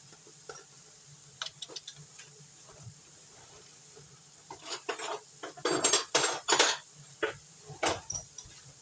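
Metal spoon clinking and scraping against a jar and pan while spooning out chopped garlic: a few light clicks at first, then a run of louder scrapes and knocks in the second half.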